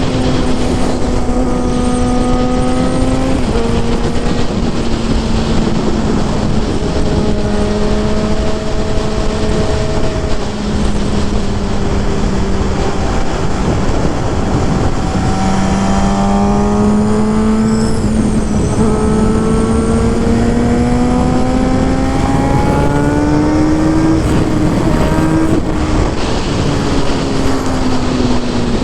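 Suzuki GSX-R 750 inline-four engine and exhaust running under way over a heavy rushing noise. The engine note holds steady with small dips through the first half, climbs for several seconds from about halfway, then falls off near the end.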